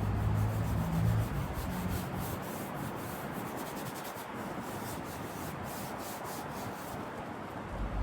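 Hand sanding of a car seat's surface: repeated scratchy rubbing strokes. A low hum underneath dies away about two seconds in.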